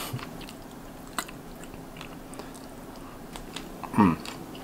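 A person chewing a mouthful of seared fish, with soft scattered clicks of the mouth and a brief vocal sound about four seconds in.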